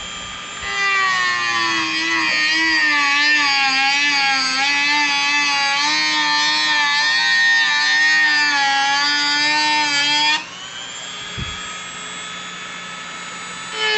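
Bench drill press driven by a treadmill motor, whining loudly while the bit is under load: the pitch sags and wavers as the cut slows the motor. About ten seconds in the load comes off suddenly, and the quieter whine rises back up in pitch as the motor regains speed.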